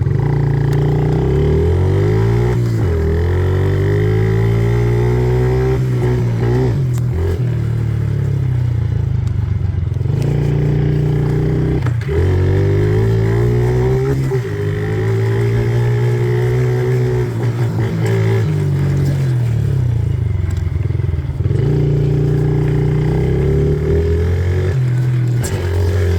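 A 50cc Yamaha dirt bike engine with an automatic clutch under way. It revs up and eases off again and again, its pitch climbing and dropping every few seconds.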